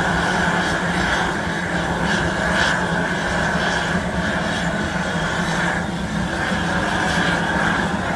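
Factory machinery running steadily: a continuous low hum with a high whine over it.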